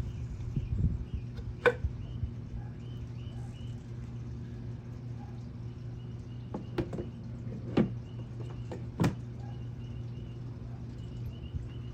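A few sharp knocks and clinks of hand tools or parts against a motorcycle engine's side case. There are four separate strikes, one a little under two seconds in and three more close together near the middle, over a steady low hum.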